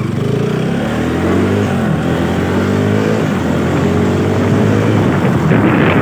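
Motorcycle engine pulling while riding, its pitch rising several times as it accelerates, with wind buffeting the microphone building near the end.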